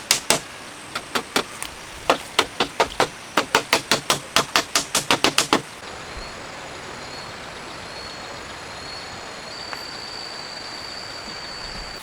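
Rapid sharp chopping knocks from a blade striking wood, about three to four a second in short runs. They stop abruptly about six seconds in, leaving steady forest background hiss with a faint high, steady tone.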